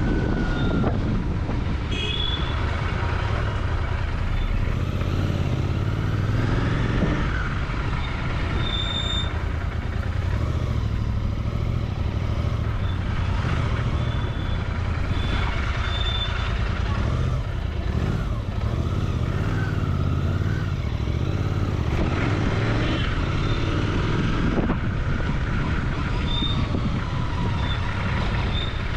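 Royal Enfield Continental GT 650's parallel-twin engine and exhaust running steadily on the move, amid road traffic.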